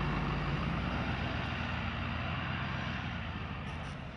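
Off-road vehicle driving along a desert dirt trail: a steady low engine hum with road and tyre noise, slowly getting quieter near the end.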